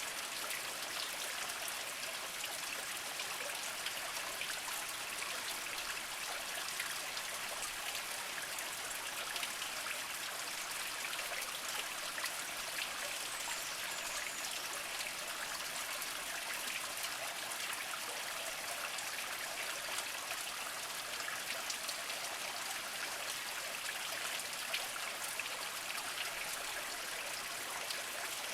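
Small mountain spring trickling steadily over mossy rocks: an even watery hiss flecked with fine drips and splashes.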